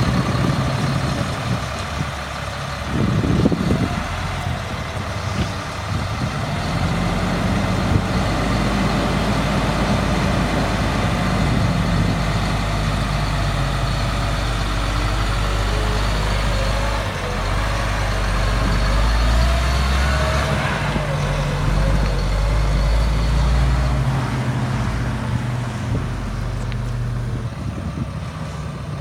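Cat C7 diesel engine of a Freightliner M2 water truck running, its pitch rising and falling a few times as the engine speed changes.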